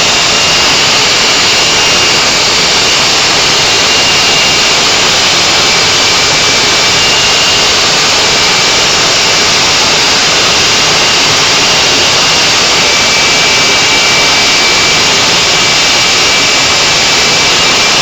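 Loud, steady engine roar with a faint high whine over it, holding level without revving.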